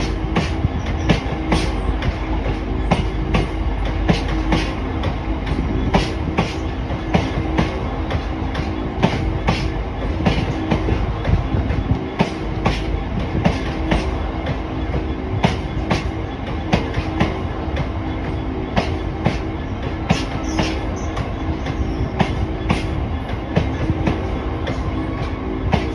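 Train passing close by, its wheels clicking steadily over rail joints, several clicks a second, over a continuous rumble with a steady hum.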